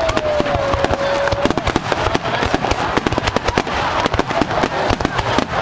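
Fireworks bursting at close range: a dense, rapid run of bangs and crackles. A held, slightly falling tone sounds through the first second and a half.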